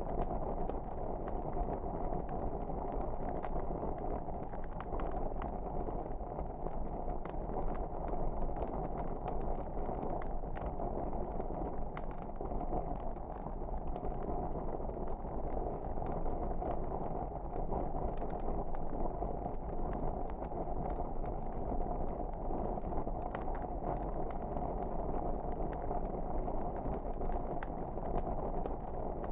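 Wood fire burning in a fireplace: a steady low rush of flames with scattered small crackles and pops throughout.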